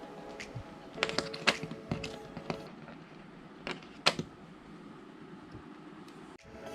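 Scattered sharp clicks and light taps from hands handling the plastic and metal parts of an LED TV being taken apart. They come as a cluster between about one and two and a half seconds in, then a few more around four seconds.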